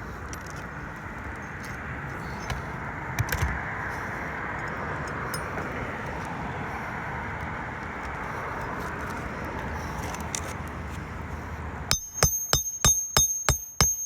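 Steady background noise, then near the end a rapid run of about eight sharp hammer blows, roughly three to four a second, each with a high metallic ring, driving a roofing nail into an asphalt shingle.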